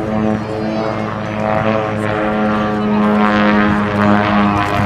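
Propeller airplane engine running with a steady drone.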